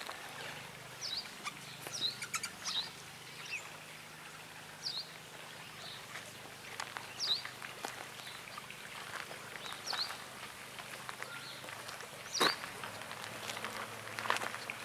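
A bird calling with short, high, falling chirps, repeated every two or three seconds, over a faint steady low hum. There are a few sharp clicks, the strongest near the end.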